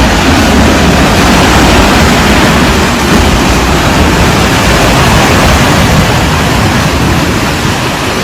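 Floodwater of a swollen river rushing past: a loud, steady wash of water noise.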